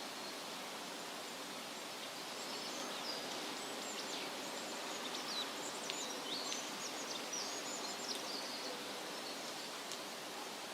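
Steady wind rustling through leafy trees, with small birds chirping in quick, short, high-pitched notes from about two seconds in until about nine seconds.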